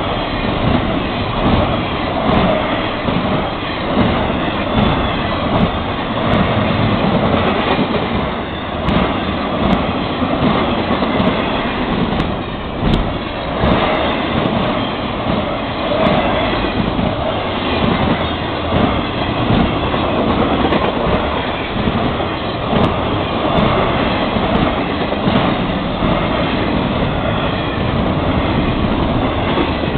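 Intermodal freight cars of a Florida East Coast Railway train rolling steadily past. The continuous rumble of steel wheels on rail is broken by many irregular clicks and clacks as the wheels pass over the rails.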